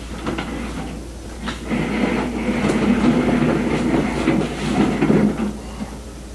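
Utility cart being rolled across the floor, its wheels rumbling and rattling, loudest in the middle stretch. The wheels are poor ones that roll roughly.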